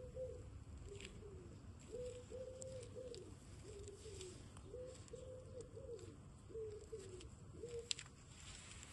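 A dove cooing: a steady series of low coo notes, each rising and falling, repeated for about eight seconds and stopping shortly before the end, with a few faint clicks and a sharp click near the end.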